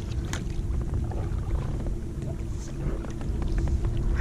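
Water sloshing with small splashes and short knocks around a kayak, over a steady low rumble and a faint steady hum.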